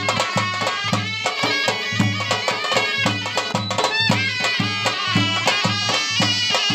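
Folk dance music: a reedy wind instrument plays a winding melody over a steady drum beat of about two strokes a second.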